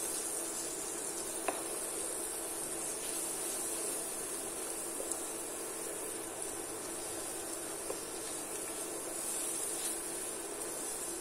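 Chopped onions and ground spices frying in oil in a pan, a steady high sizzle, with a few faint taps of a wooden spoon as they are stirred.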